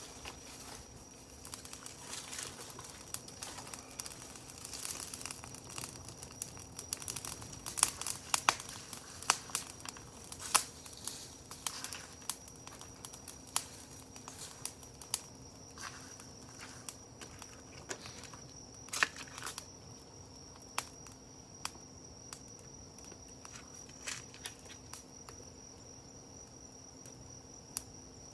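Campfire crackling: burning wood pops and snaps at irregular intervals, busiest in the first half. A steady high insect trill goes on behind it.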